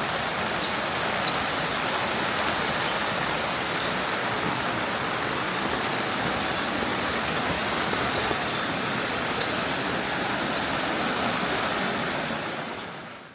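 Steady rushing of water, an even hiss with no separate drops or strokes, fading out near the end.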